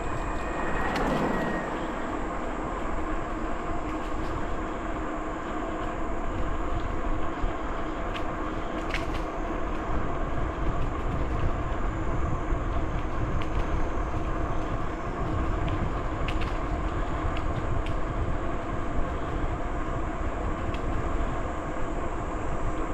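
Steady riding noise from a bicycle on the move: low wind rumble on the microphone and a constant hum from the rolling bike, with scattered light clicks. About a second in, a brief falling whistle-like glide passes over it.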